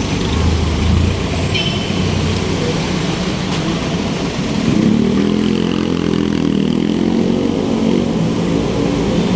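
City street traffic heard up close: motor vehicle engines running alongside, with one nearby engine coming up louder from about halfway in, its pitch shifting slightly.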